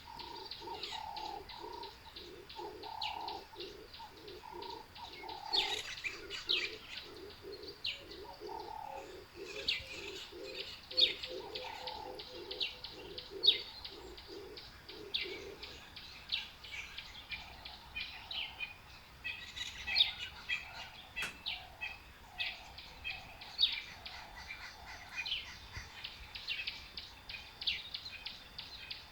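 Birdsong: many small birds chirping and twittering, with a low cooing note repeated about twice a second that stops about halfway through.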